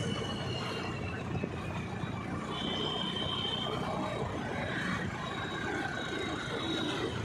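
Street traffic noise: a steady mix of passing road vehicles, with a high thin tone held for about a second near the middle.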